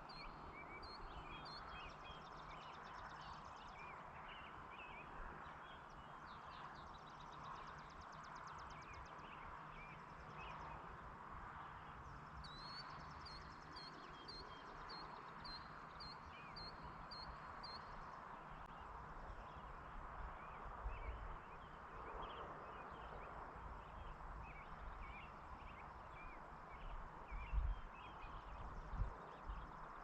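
Rural evening outdoor ambience: birds giving series of short, evenly repeated high chirps and a few fast trills over a steady soft hiss, with a few low thumps near the end.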